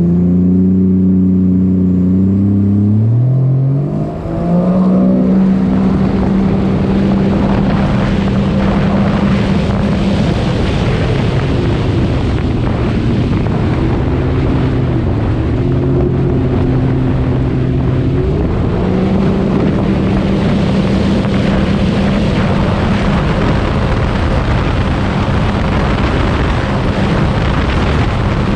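Supercharged Sea-Doo RXP-X 300 personal watercraft with a Riva Racing exhaust, running hard at speed over water with a rush of spray. Its engine note climbs after a brief break about four seconds in, eases to a lower pitch about ten seconds in, and climbs back about two-thirds of the way through.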